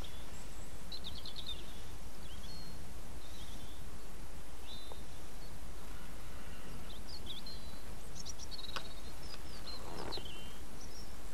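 Small birds chirping and twittering on and off over a steady low background rumble, with a short rustle near the end.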